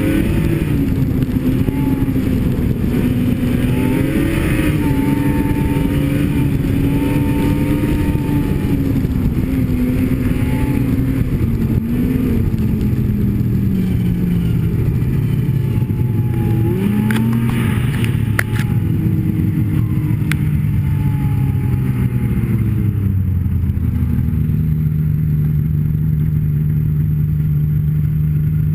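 Snowmobile engine running under throttle, its pitch rising and falling with speed, then dropping to a steady lower note over the last few seconds as the sled slows. A few sharp clicks a little past halfway.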